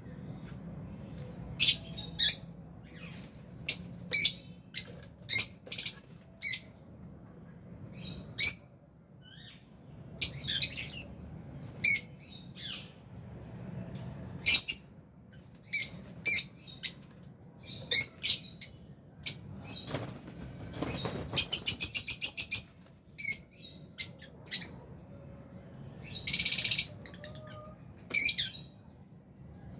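A flock of lovebirds in an aviary chirping and squawking: short, sharp, high-pitched calls scattered throughout, with a rapid run of repeated chirps about two-thirds of the way through and a longer harsh call near the end.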